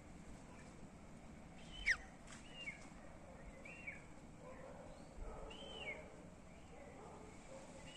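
Birds calling: a sharp, quickly falling call about two seconds in, then short arched chirps every second or so, over a faint steady background hiss.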